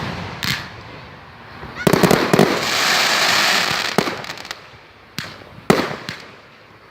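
Fireworks going off: a sharp bang, then a cluster of cracks about two seconds in followed by a hissing crackle for about a second and a half, then a few more sharp bangs.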